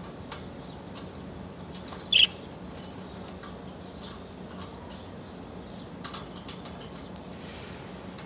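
Caged lovebirds: scattered small clicks and taps of the birds moving about the cage, with one short, loud, high chirp about two seconds in, over a faint steady hum.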